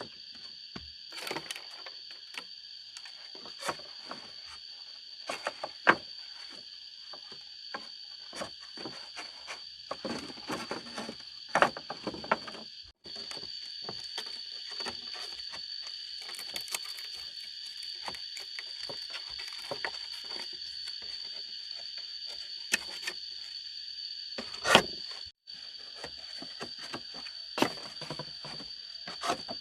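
A steady, high insect drone with scattered knocks and clatter. It cuts out briefly twice.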